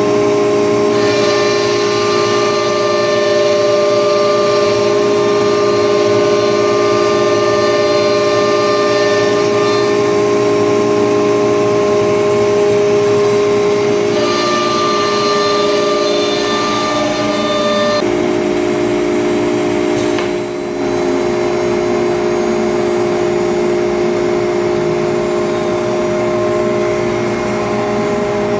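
Acctek ATC CNC router running, its spindle giving a steady whine made of several held tones. The tones shift a few times, and the sound dips briefly about twenty seconds in.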